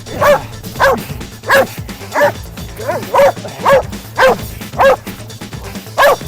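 A dog barking repeatedly in short, loud barks, about ten in a row roughly half a second apart: excited barking while playing and wrestling over a thrown branch. Background music runs underneath.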